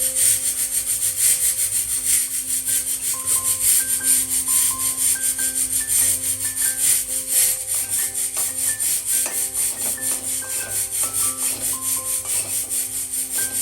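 Fast, even back-and-forth rubbing strokes, about four or five a second, as of scrubbing or wiping a surface, over soft background music with sustained notes.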